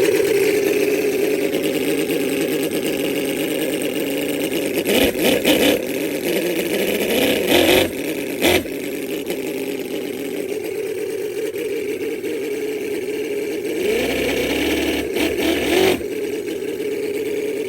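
Cison V8 scale model engine running at a fast idle through small bolted-on exhaust tips, blipped briefly several times, around five, seven to eight, and fifteen seconds in.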